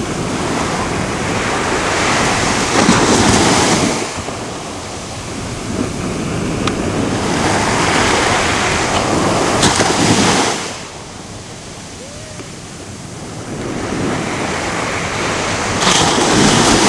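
Ocean surf: waves breaking on the shore three times, about every six to seven seconds, each crash swelling and then falling back to a softer hiss of wash between.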